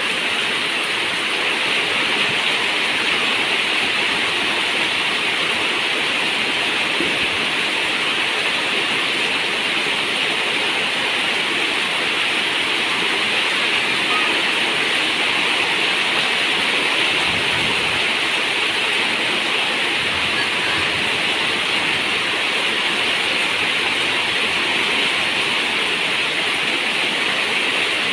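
Heavy rain pouring steadily, a dense even hiss with no single drops standing out.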